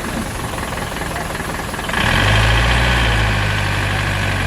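Heavy truck engine running steadily, getting louder about two seconds in and holding there.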